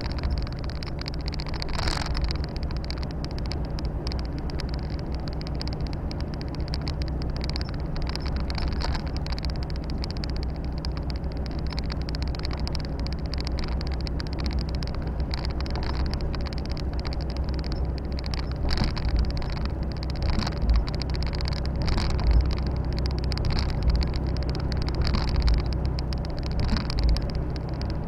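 Volvo FH 460 truck's six-cylinder diesel running steadily on the move, heard from inside the cab, with road and tyre noise. A few low bumps and knocks come through in the second half.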